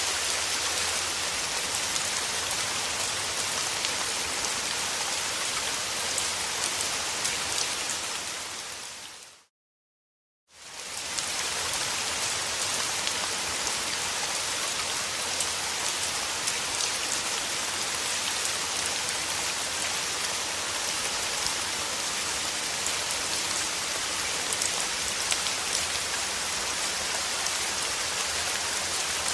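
Steady rain falling on a surface, an even hiss with fine drop patter. About nine seconds in it fades out to a second of complete silence, then fades back in and carries on evenly.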